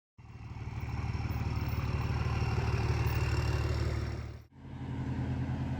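Truck engine running steadily with a fast, even low pulse, fading in over the first second. About four and a half seconds in it cuts off abruptly and another engine sound takes over.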